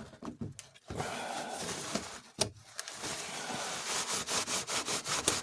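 Small parts of a model-train motor truck being handled and fitted back together: rubbing and scraping, with one sharp click about two and a half seconds in and a run of light clicks near the end.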